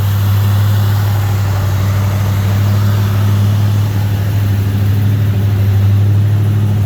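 1976 Oldsmobile Cutlass Salon's factory 455 Rocket V8 idling steadily, with a deep, even hum through its full dual exhaust.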